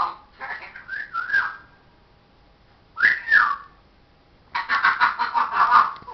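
Pet parrot whistling and chattering in short bursts, with whistles that slide in pitch, including one that falls about three seconds in, then a denser run of chatter near the end.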